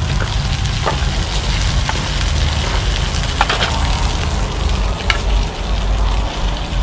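Food frying in hot oil in a pan: a steady sizzle with scattered sharp clicks and crackles, over a steady low rumble.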